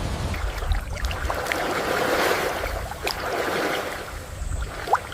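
Water lapping and sloshing in slow swells, with a few small drips and clicks.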